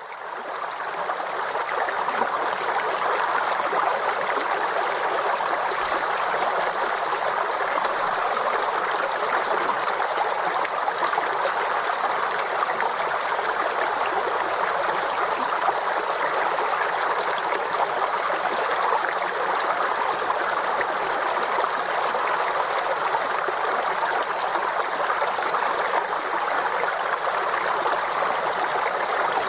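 Forest stream flowing steadily over its bed, a continuous rushing babble, fading in over the first second or two.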